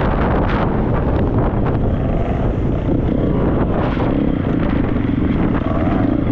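Triumph 250 motocross bike's single-cylinder four-stroke engine running under way, its pitch rising and falling a little with the throttle, with wind buffeting the helmet-mounted microphone.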